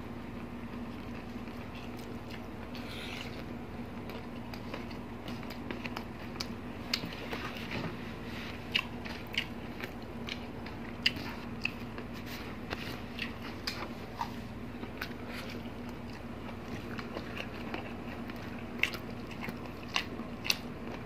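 Close-miked eating: chewing and wet mouth clicks and smacks, sparse at first and then coming thick and fast, over a faint steady hum.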